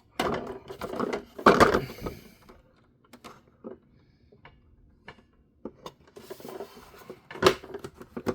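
Plastic toy parts and a small screwdriver being handled while a screw is worked in: scattered small clicks and rattles, with louder knocks and scrapes in the first two seconds and again near the end.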